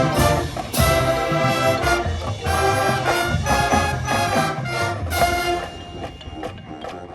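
Band music with brass: loud chords played in short phrases, getting softer near the end.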